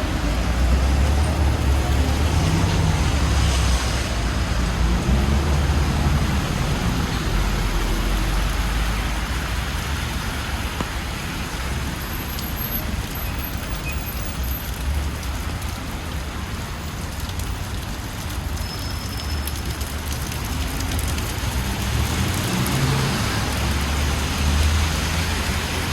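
Road traffic on a rain-wet city street: a steady hiss of rain and tyres on wet asphalt under the low rumble of passing cars, which eases in the middle and builds again near the end.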